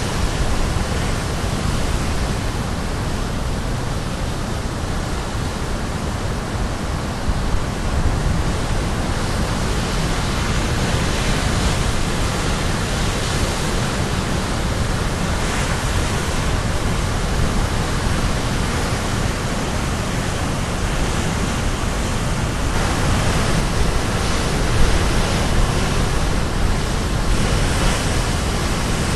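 Caribbean Sea surf crashing on the shore: a steady rushing wash of water, with a breaking wave swelling louder every several seconds.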